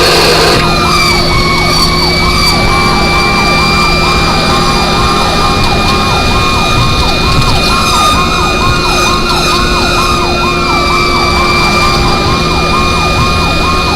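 Fire engine's siren on a fast yelp, sweeping up and down about twice a second, with a steady high tone alongside and the truck's engine running underneath.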